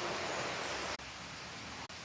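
Steady rushing noise with no distinct calls or tones; it drops out for an instant about a second in and then goes on slightly quieter.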